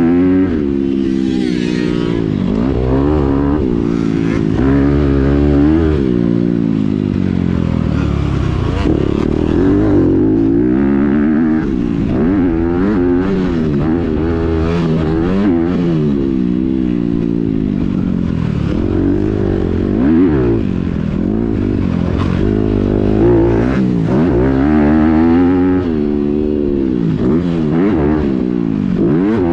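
Honda CRF250R single-cylinder four-stroke dirt bike engine, raced hard: the pitch climbs under throttle and drops back over and over, every second or two, as the rider accelerates, shifts and rolls off.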